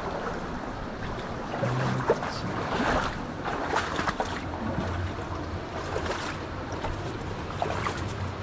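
Mountain stream water rushing steadily, with wind on the microphone and a few small irregular knocks and scrapes.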